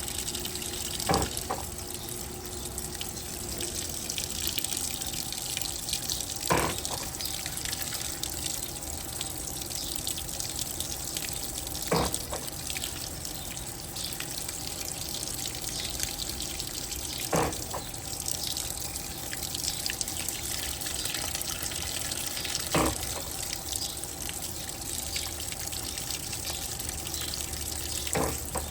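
Electrolux Turbo Capacidade 15 kg top-load washing machine filling: a steady rush of water into the tub, with a short knock that repeats about every five seconds, six times in all.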